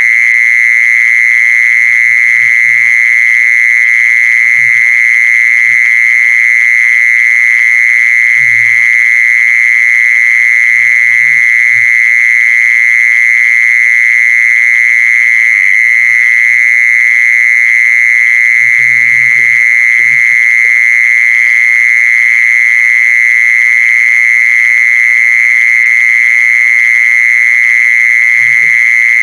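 Continuous buzzing song of the singing insect known in Thai as 'jeeson' (แมลงจีซอน), held at one steady high pitch without a break.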